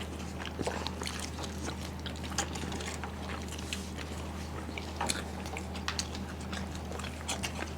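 Quiet eating sounds of soft, syrupy Bengali sweets: small wet mouth clicks and soft chewing, scattered through, over a steady low hum.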